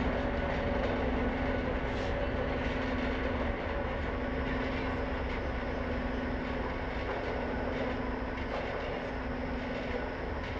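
Horror-film ambient drone under the credits: a steady low hum over a rumbling, noisy bed with faint higher tones, easing a little after about three and a half seconds.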